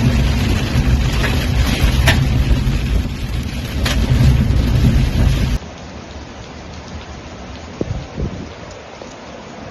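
Heavy rain with a loud low rumble and a few sharp taps, cutting off about five and a half seconds in to a quieter, steady patter of rain.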